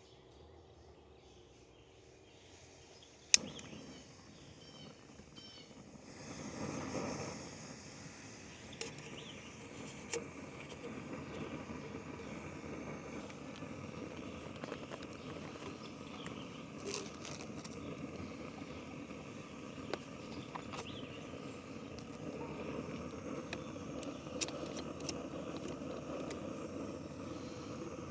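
A sharp click, then from about six seconds in a gas camp stove burner comes on and hisses steadily, heating water for coffee.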